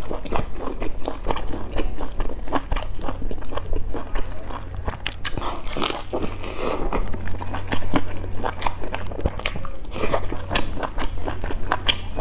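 Close-up crunching and chewing of a pan-fried chive-and-egg pastry with a crisp fried crust: many small crackly crunches in quick succession, with a steady low hum underneath.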